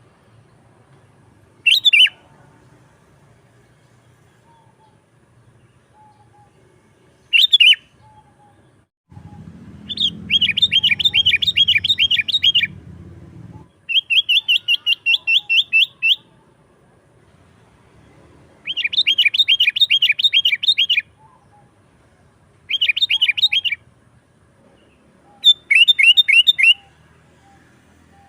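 Sooty-headed bulbul calling energetically: two short single calls, then a run of bursts of fast, repeated chattering notes, each burst lasting one to three seconds with short gaps between.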